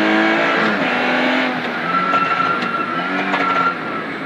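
BMW 130i rally car's straight-six engine heard from inside the cockpit under hard driving. The revs drop, climb again and dip near the end through gear changes. A steady high whine joins about two seconds in.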